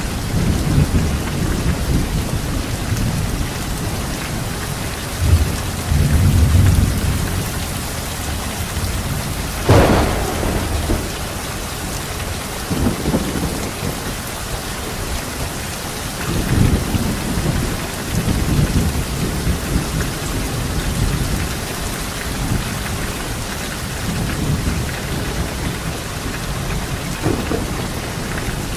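Steady heavy rain with rolling thunder rumbling low again and again, and one sharper, closer thunderclap about ten seconds in.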